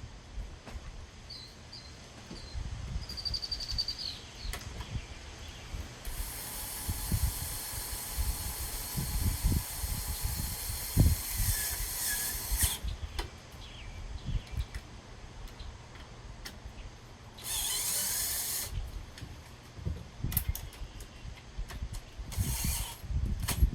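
Power drill driving screws: one long run of about seven seconds starting about six seconds in, then two short runs later, with knocks and clicks of handling in between.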